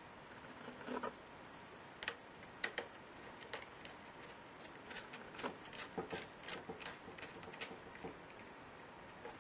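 Irregular small clicks and taps of laptop parts and tools being handled, coming quicker from about five to eight seconds in.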